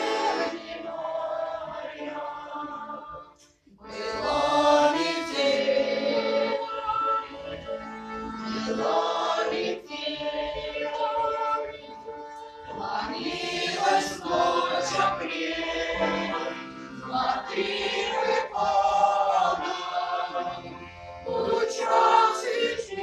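A choir singing in phrases, with a brief break between phrases about three and a half seconds in.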